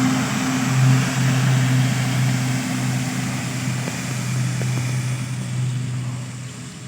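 An aircraft flying past: a steady low engine drone with a broad rushing noise, fading gradually as the plane moves away.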